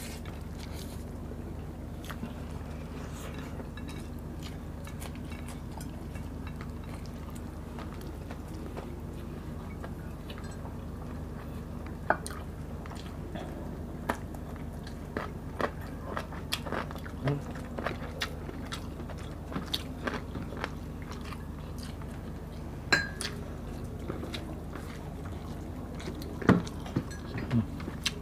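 Close-miked eating: chewing and biting of chicken adobo and rice eaten by hand, with scattered short clicks and knocks of plates and a glass that come more often in the second half, over a steady low hum.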